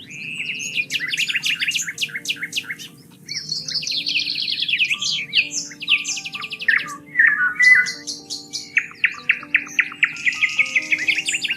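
Several songbirds singing, with fast trills and rapid runs of repeated chirps overlapping, over soft sustained background music.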